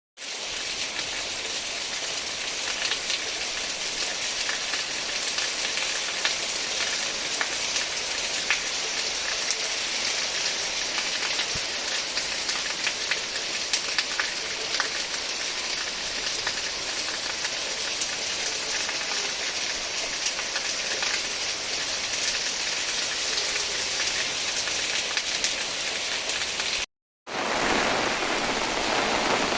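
Steady rain falling, a dense hiss with many individual drop strikes. Near the end it cuts out for a moment and comes back fuller, with more lower rushing sound.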